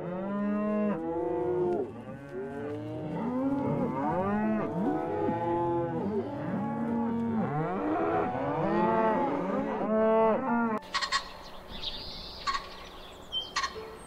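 A herd of bison lowing, many overlapping drawn-out moo-like calls that rise and fall in pitch. About three-quarters of the way through the calls stop abruptly, and a few sharp taps follow.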